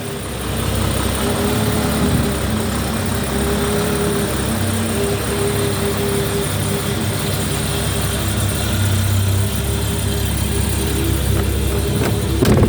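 Mercedes 280 CE's straight-six engine idling steadily, an even low hum with a steady drone over it.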